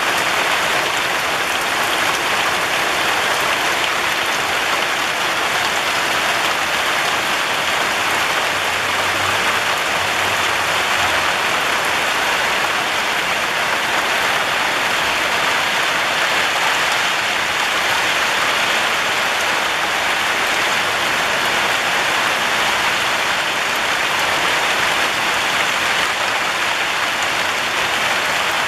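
Steady rain falling on clay-tiled rooftops: an even, continuous hiss of countless drops with no let-up.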